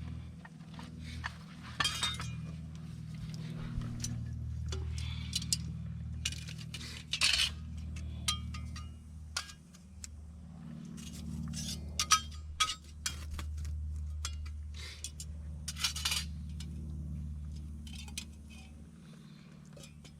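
Camp cookware clinking and knocking at irregular moments, over a steady low rumble.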